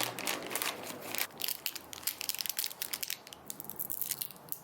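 A candy wrapper being torn open and crinkled by hand, with a dense run of irregular crackles.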